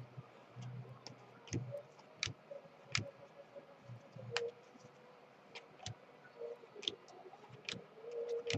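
Scattered light clicks and taps of trading cards being handled and sorted, one every half second or so, with a faint steady hum underneath.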